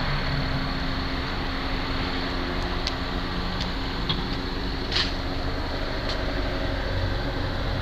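Helicopter circling overhead, a steady mechanical drone with no change in pitch or loudness, with a few faint clicks.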